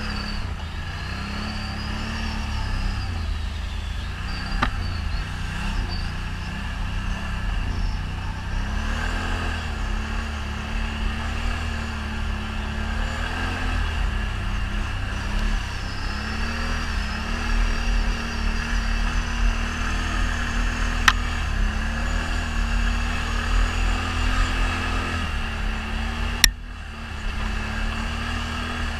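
ATV engine running under way, its note rising and falling a little as it is ridden, with a heavy low rumble and a few sharp knocks.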